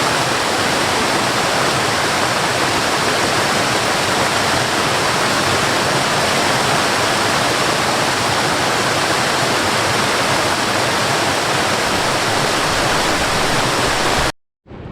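Heavy rain pouring down, a loud steady hiss that cuts off abruptly near the end.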